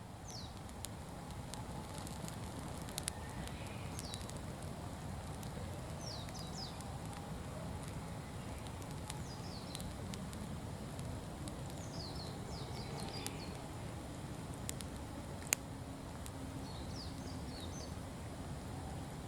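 Fallen-leaf bonfire burning with a steady low rush and a few sharp crackling pops, while a small bird repeats short, high, falling chirps in little groups every couple of seconds.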